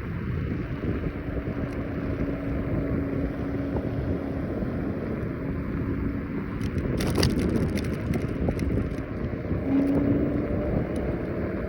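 Wind buffeting the microphone during a ride on a Kaabo Wolf Warrior 11 Pro electric scooter, under a faint steady whine that rises a little near the end. A brief burst of crackling rattles comes about seven seconds in.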